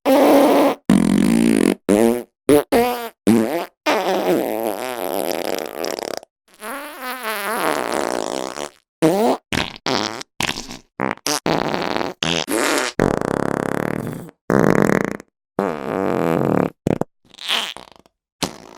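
A rapid string of around twenty fart sound effects, one after another, each cut off by a brief silence. Some are short blips and some run two seconds or more, several with a wobbling, rising and falling pitch.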